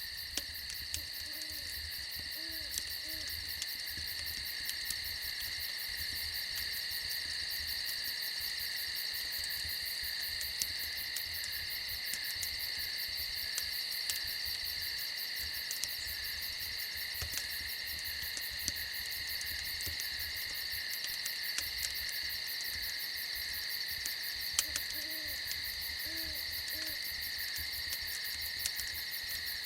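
Night insects, crickets among them, chirring steadily in two high bands, with an owl giving a short run of three or four low hoots about a second in and again near the end. Faint scattered crackles of a campfire sound throughout.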